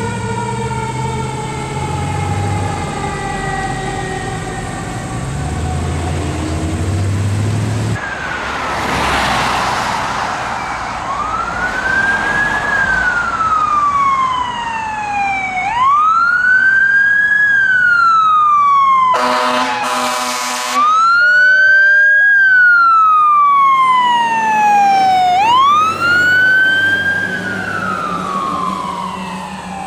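Fire engine sirens on an emergency response. First a siren tone slowly falls in pitch over the truck's diesel engine. Then an electronic siren wails up and down in slow cycles, broken about two-thirds through by a blast on the air horn.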